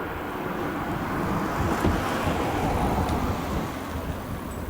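Jet roar from the four turbofan engines of a Boeing OC-135B on its landing approach, swelling to a peak about two seconds in and then easing off, with wind buffeting the microphone.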